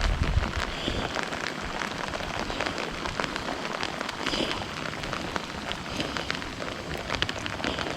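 Rain falling steadily, with many small sharp drop hits close to the microphone.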